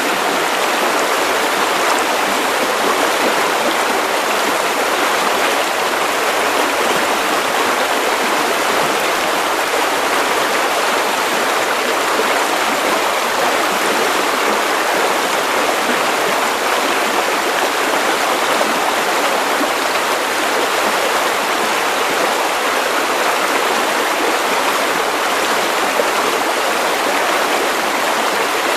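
Steady white noise, an even hiss that never changes, with little deep bass.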